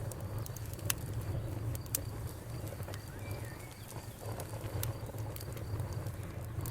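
Wood fire burning in a fireplace: a steady low rumble with a few sharp, irregular crackles and pops, the loudest about one and two seconds in.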